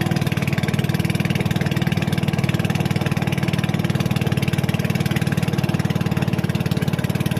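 Small fishing boat's engine running steadily, with a fast, even pulse.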